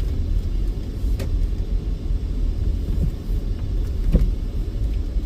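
Steady low rumble of a car being driven, with a faint tick about a second in and another about four seconds in.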